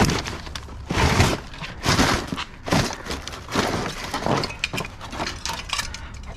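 Scrap being rummaged through in a dumpster: metal and glass pieces, light fixtures and bulbs among them, clattering and clinking in a rough crash about every second.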